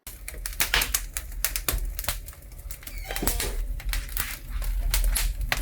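Wood fire crackling in a large brick fireplace: rapid, irregular sharp pops and snaps over a steady low rumble.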